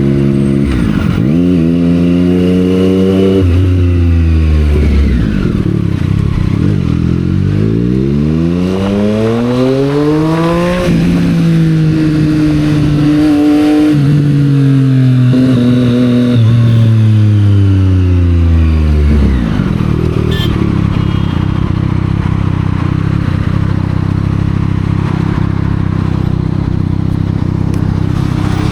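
765R motorcycle engine through a Yoshimura exhaust, revving up and easing off with pitch steps between gears, then slowing with falling revs and settling into a steady low run, likely idle, for the last third.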